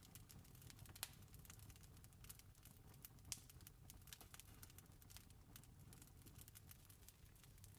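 Campfire crackling: scattered small ticks and pops, with two sharper pops about one and three seconds in, over a low steady rumble.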